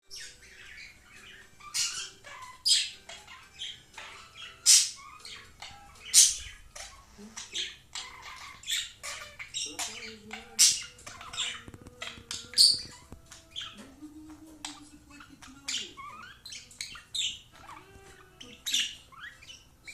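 Pet budgerigar chattering: a fast, unbroken run of short, sharp chirps and squawks, with lower warbling passages in the middle.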